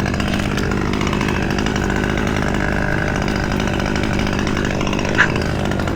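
Two-stroke chainsaw engine running steadily at an even speed, not rising or falling in pitch.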